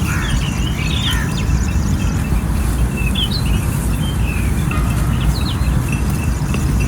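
Small birds chirping in short, quick, gliding calls scattered throughout, over a steady low rumble.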